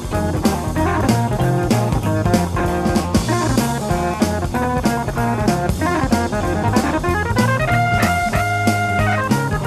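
Blues-rock band music: electric guitar playing over bass and drums with a steady beat. Near the end one guitar note is held and rings out.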